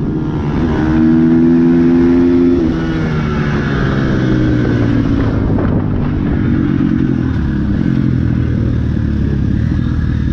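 Dirt bike engine running hard at steady high revs for about two and a half seconds, then easing off to a lower, rougher note as the rider backs off the throttle.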